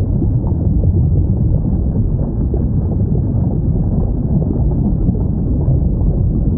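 Steady low rumble of underwater ocean ambience, with no distinct whale calls.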